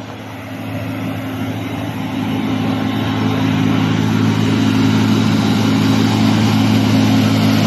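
Heavy diesel truck engine labouring uphill in first gear, a steady low drone that grows louder over the first few seconds as the truck approaches, then holds.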